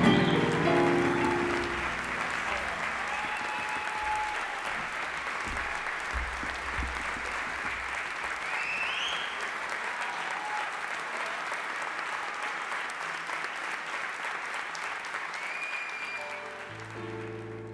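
Audience applauding after the last notes of a song, with a few short whistles from the crowd. Plucked-string notes start up again near the end.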